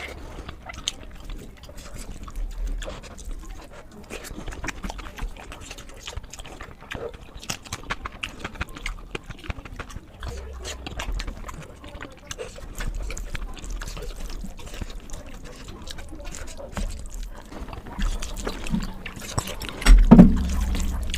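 Close-miked wet eating sounds: chewing and mouth smacking with many small clicks, and a couple of louder bursts near the end.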